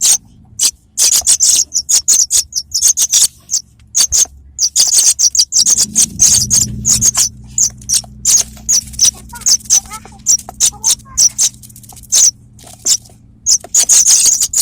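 Young paddyfield pipits (apung tanah) calling: quick, irregular runs of short, high chirps, many a second, used as a lure recording.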